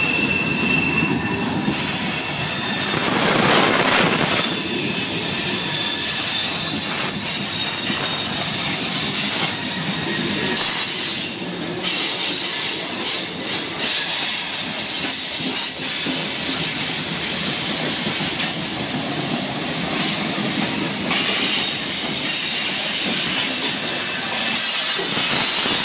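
Loud freight train cars rolling slowly past on a curve, their steel wheels squealing high against the rails over a steady rumble and clatter.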